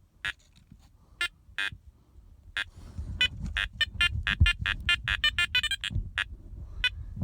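Metal detector beeping as it picks up a buried target: a few separate beeps at first, then a rapid run of several beeps a second from about three seconds in. A low rumble sits under the later beeps.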